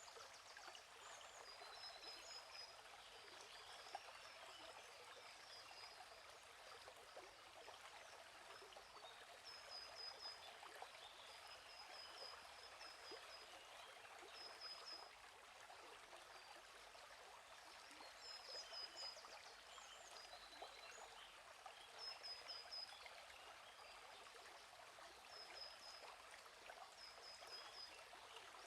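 Faint, gently flowing stream, with a small bird repeating short high chirps every few seconds.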